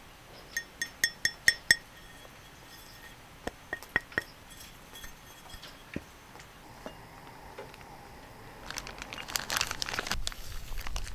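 Metal cookware and utensils being handled: a quick run of about six ringing clinks, a few scattered clinks after, then a couple of seconds of clattering and scraping near the end.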